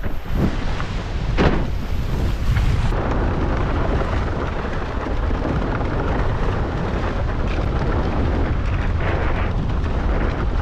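Heavy wind buffeting the microphone of a windsurfer sailing at speed, with water rushing under the board. There are a couple of sharper splashes in the first two seconds.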